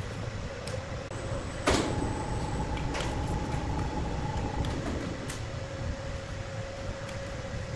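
Large sawmill wood saw running with a steady hum over a low rumble. About two seconds in there is a sharp knock, then a higher tone holds for about three seconds before dropping back to the earlier hum.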